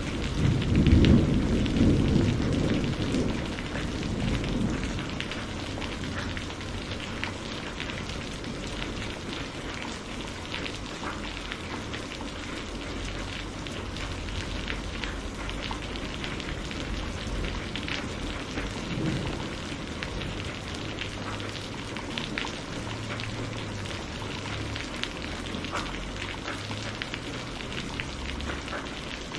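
Steady rainfall, with a low rumble of thunder swelling about a second in and fading over the next few seconds, and a fainter rumble later on.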